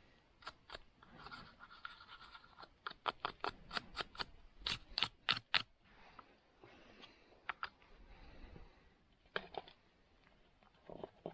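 Hand work on a saw: soft scratchy rubbing strokes, with a quick run of sharp metallic clicks from about a third to halfway through and a couple more near the end.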